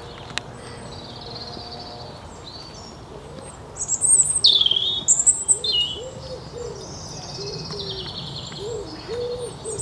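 Woodland birdsong: high, varied twittering and whistled phrases, loudest from about four seconds in. In the second half a lower call repeats over and over beneath it, soft and cooing.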